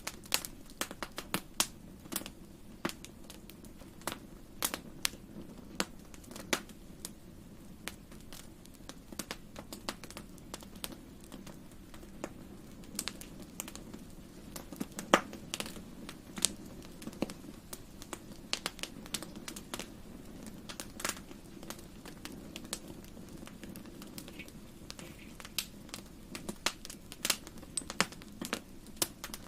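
Wood fire crackling in a fireplace: a dense run of irregular sharp pops and snaps over a steady low rumble of the flames.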